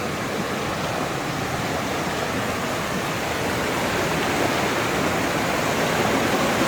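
Flash-flood runoff rushing along a canyon creek: a steady rush of water that grows slightly louder.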